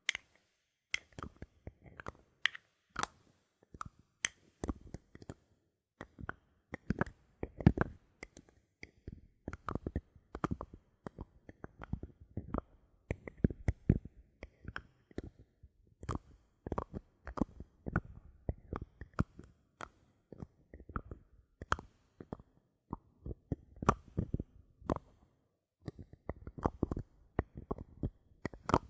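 Bottle caps handled close to the microphone: a dense, irregular run of short clicks and taps, broken by a few brief pauses.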